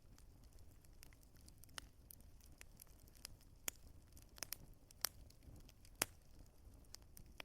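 Wood fire crackling: irregular sharp pops and snaps of burning logs over a soft low rumble, with a few louder pops about two, five and six seconds in.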